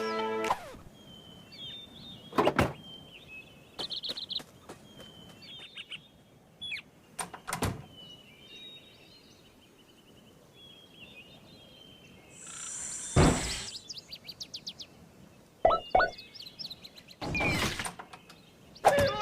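Birds chirping faintly in the background, broken by several short thuds and a longer whoosh.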